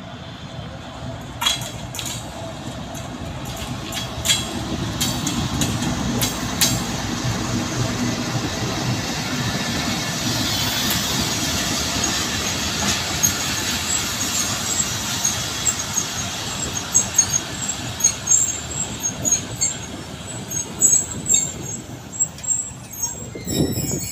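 Pakistan Railways GEU-40 diesel-electric locomotive running past close by with its engine rumbling, followed by passenger coaches rolling by. Their wheels knock over the rail joints in quick irregular clacks during the second half.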